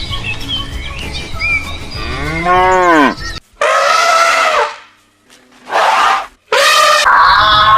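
Cattle mooing: a series of drawn-out calls, the first rising then falling in pitch, each following after a short gap. Birds chirp faintly at the start.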